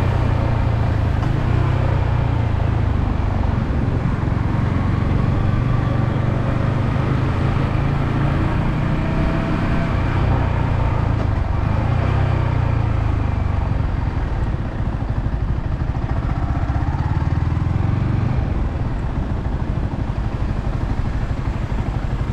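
Yamaha R15M's 155 cc single-cylinder engine through its stock exhaust, running under way with the revs rising and falling several times and easing off somewhat in the second half.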